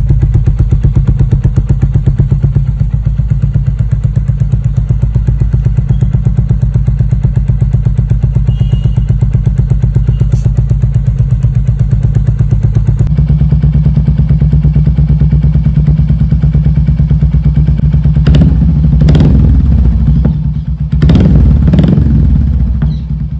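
Royal Enfield Hunter 350's single-cylinder engine running through a modified aftermarket exhaust, idling with an even beat, then the throttle is blipped several times in the last few seconds.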